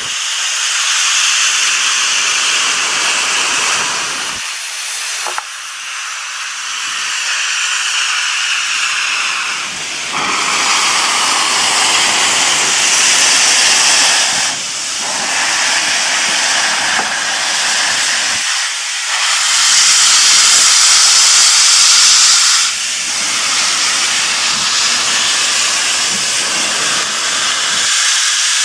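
Soo Line 1003 steam locomotive venting with a loud, continuous high-pitched hiss that swells and eases in several surges, loudest about two-thirds of the way through.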